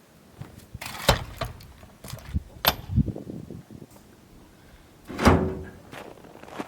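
A few separate knocks and thuds, the loudest about five seconds in with a brief ringing after it.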